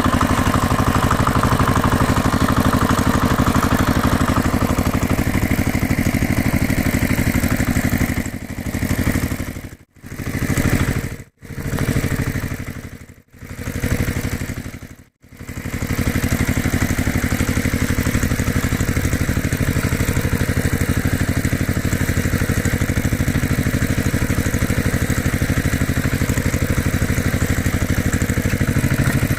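Engine running steadily at idle, with a low hum. A third of the way in it dips out briefly four times, then carries on steadily.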